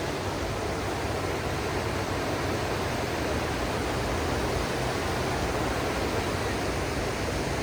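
Steady rushing of the fast-flowing Kunhar River, an even, unbroken noise.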